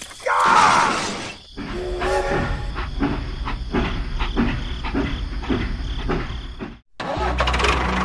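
Battery-powered toy steam locomotive running on plastic track, a rhythmic clatter of about two beats a second after a short falling tone at the start. It stops abruptly near the end, and a steady low hum follows.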